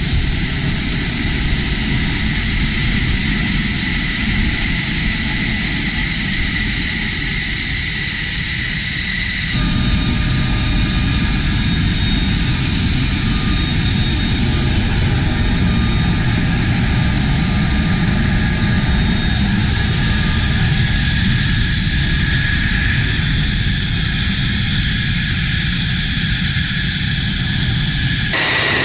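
F-16 Fighting Falcon's jet engine running, a loud steady rush with a high whine over it. The sound changes abruptly about ten seconds in, to a fuller rush with a different whine.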